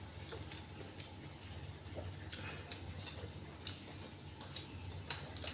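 Irregular soft clicks and wet smacks of someone chewing and eating noodles close to the microphone, over a steady low hum.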